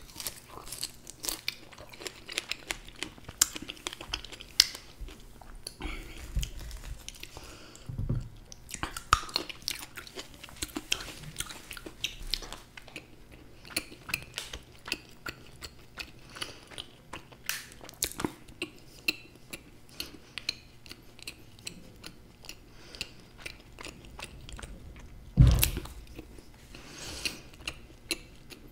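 Close-miked chewing and biting of fruit and chocolate, many small mouth clicks at an uneven pace, with one louder thump about 25 seconds in.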